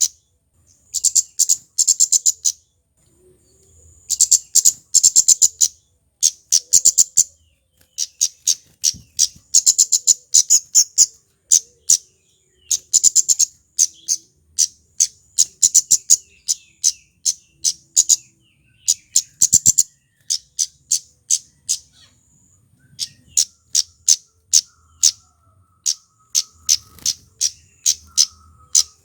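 Male kemade flowerpecker calling: fast runs of sharp, very high 'cit' ticks, each run lasting a second or two with short pauses between.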